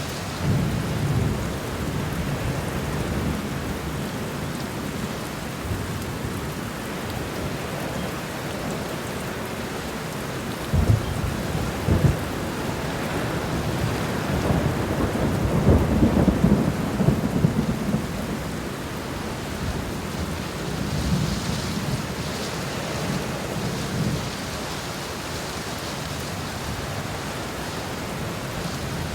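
Steady rain with thunder rumbling low beneath it. The rumble rises and falls, with two sharp low thumps a little before the middle and the loudest rolling stretch just after it.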